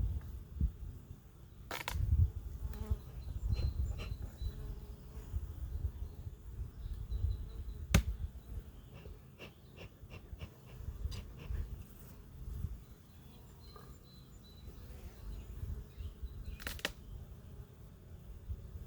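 Honeybees buzzing around an open hive during an inspection, over a low rumble. A few sharp knocks come through, the loudest about eight seconds in.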